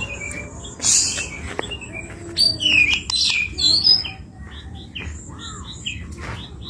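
White-rumped shama (murai batu) singing a rapid, varied song of whistled notes and sweeping glides, with a harsh rasping note about a second in.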